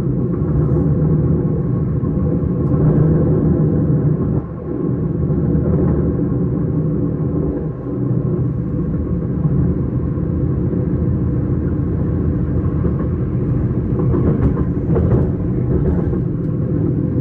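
S-Bahn commuter train running: a steady rumble of a moving train, with brief dips about four and a half and eight seconds in.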